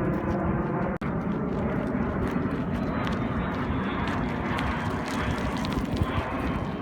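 Jet engine noise from the Blue Angels' F/A-18 Hornets flying past, a steady, dense rumble that cuts out for an instant about a second in.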